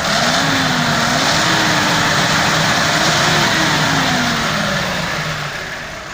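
Mercedes-Benz OF-1724 bus's diesel engine revved up and held high, its pitch wavering. It then eases off and falls back toward idle near the end.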